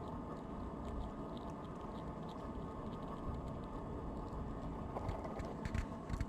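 A squirrel gnawing and handling a nut, heard as faint scattered clicks with a few louder ones near the end, over a steady low background rumble.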